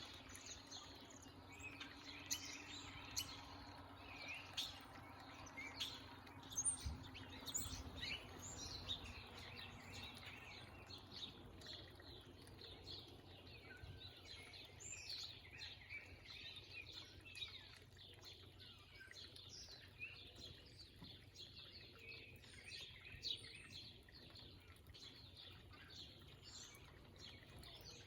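Backyard songbirds chirping, with many short, high calls overlapping throughout. A faint low hum fades out about ten seconds in.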